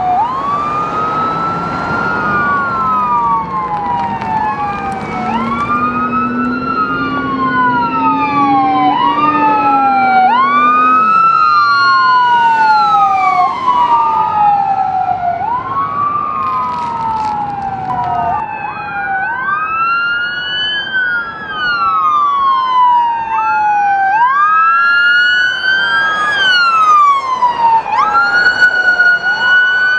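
Emergency vehicle sirens on a slow wail, at least two overlapping and out of step, each rising and falling about every two and a half seconds. A low drone under them climbs, then drops away about eleven seconds in.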